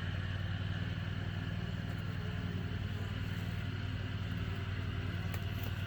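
Steady droning hum of a crowd of honeybees at a busy swarm-trap entrance.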